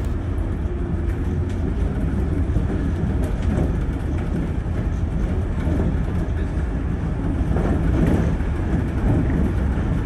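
Shonan Monorail suspended train car running, a steady rumble heard from inside the car.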